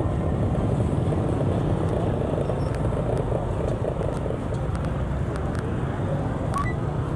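Steady engine and road noise of a moving vehicle, a dense low rumble with no break.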